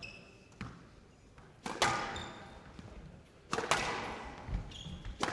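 A squash rally: the ball is hit hard about four times by rackets and against the walls, each sharp hit ringing on briefly. Short high squeaks from players' shoes on the court floor come between the shots.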